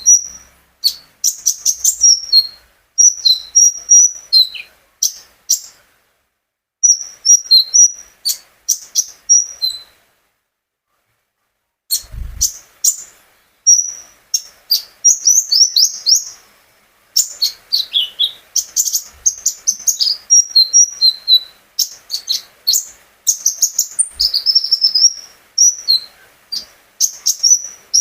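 Konin songbird singing in bursts of rapid, sharp, high chirps and short trills, with two brief pauses, about six and ten seconds in. A low bump is heard just after the second pause.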